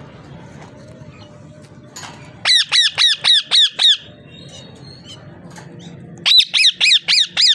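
A parrot squawking in two quick runs of about six calls each, about four calls a second, the second run starting about six seconds in.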